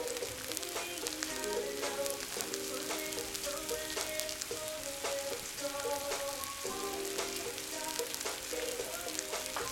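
Meat and shredded carrots sizzling in hot oil in a cast-iron cauldron, a steady dense crackle of spitting fat. Background music with a melody plays under it.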